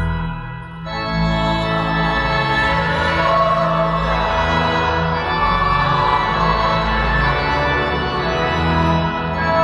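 Church organ playing sustained chords, which thin out briefly at the start and come back in full about a second in.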